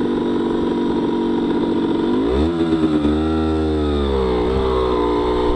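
Honda CRM50's small two-stroke single-cylinder engine, bored out to 63 cc, running steadily at low revs. About two seconds in the revs climb, waver, and settle at a new steady speed.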